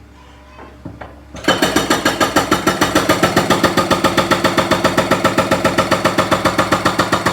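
Large jackhammer starting up about a second and a half in and then pounding concrete road surface in a steady rapid rhythm, about six or seven blows a second.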